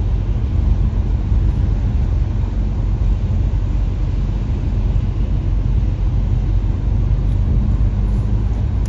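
Car driving: a steady low road and engine rumble that cuts off abruptly at the very end.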